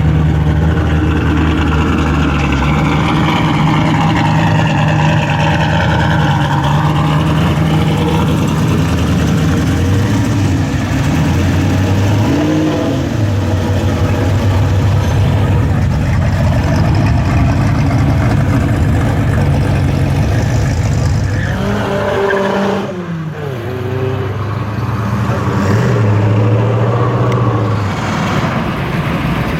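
Loud car engines running and revving at a car meet, with one rev rising and falling about halfway through and another sharper rev about three-quarters of the way in.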